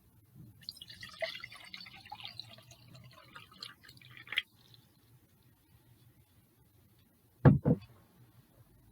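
Water being poured into a drinking glass for about four seconds, trickling and splashing. About seven and a half seconds in come two loud, short knocks.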